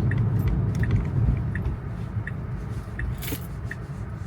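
Inside a Tesla cabin on a wet road: a steady low road and tyre rumble, with the turn signal ticking evenly about one and a half times a second. A brief swish of spray or wiper noise comes about three seconds in.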